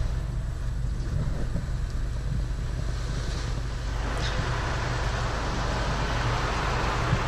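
Touchless automatic car wash running over the car, heard from inside the cabin: a steady low rumble with a rushing hiss that grows louder about four seconds in.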